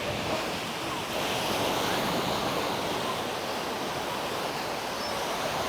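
Sea surf washing on a sandy beach: a steady rush of small waves that swells a little about a second in.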